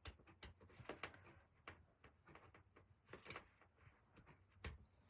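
Near silence with a few faint, scattered rustles and light taps of hands folding and pressing a felt backing over the edge of a craft piece.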